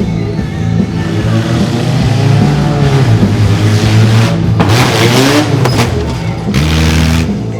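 Mini monster truck's engine revving up and down hard during a run, with two loud rushes of noise, the first about five seconds in and the second near the end.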